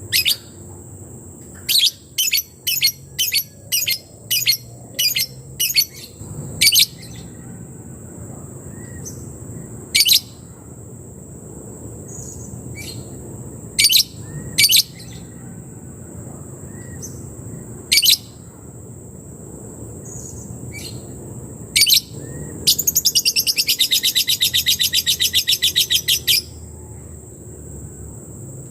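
Lebet bird giving its 'ngetik' typing call: sharp, high chips, first a run of about eight at roughly two a second, then scattered single chips, and near the end a fast rattling trill lasting about three and a half seconds.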